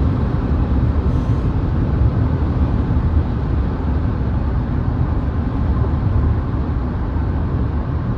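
Cabin noise of a 2025 Volvo XC60 T8 plug-in hybrid under hard acceleration at highway speed: a steady low rumble of road noise with its 2.0-litre turbocharged and supercharged four-cylinder gas engine running.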